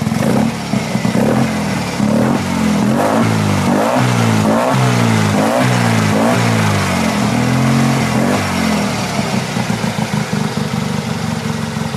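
Tuned 700cc air-cooled twin-cylinder Fiat 500 engine with an open sports exhaust, blipped repeatedly so the revs rise and fall about once a second, with a longer rev near the end before it drops back to idle. The revving is part of a carburation and tuning test on the freshly run-in engine.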